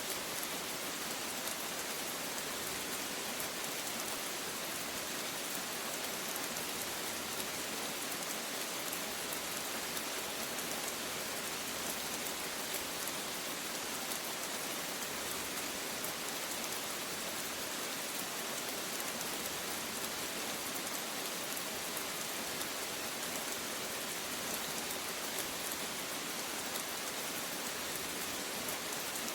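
Steady rain falling: an even hiss of rainfall with a fine patter of drops, without thunder.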